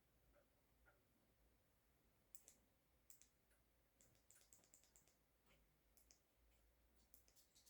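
Near silence with faint, scattered clicks from about two seconds in.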